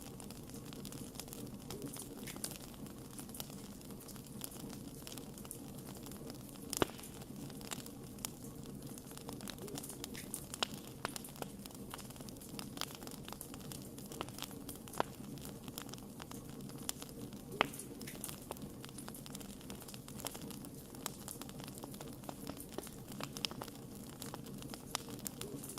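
Wood fire crackling, with frequent irregular small pops and a few louder sharp snaps over a steady low rumble of the burning.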